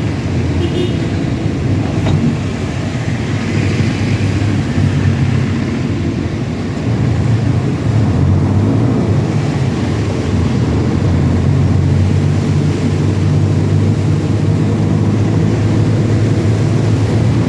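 A truck engine running steadily with a low hum, growing a little louder about seven seconds in.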